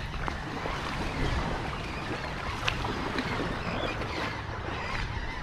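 Seaside wind buffeting the microphone over the wash of surf, with a few small clicks or knocks.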